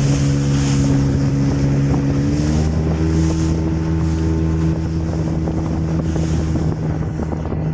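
Motorboat engine running underway, with wind buffeting the microphone. About two and a half seconds in, the engine note changes.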